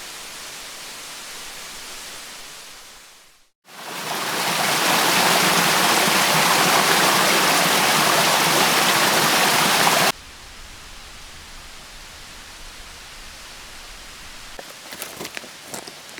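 Mountain stream water rushing as a steady hiss, much louder through the middle stretch, then cutting off suddenly to a quieter flow. A few light clicks come near the end.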